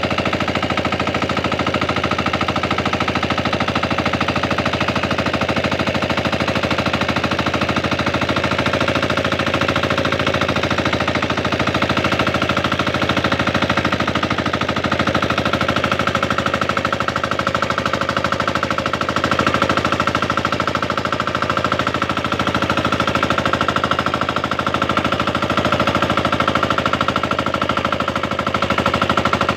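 Tractor engine running steadily in a rice paddy, a rapid, even train of firing pulses with no break.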